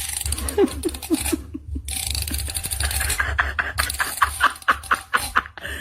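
A person laughing in short repeated bursts: a few lower 'ha's early, then a faster, higher run of about four bursts a second over the second half.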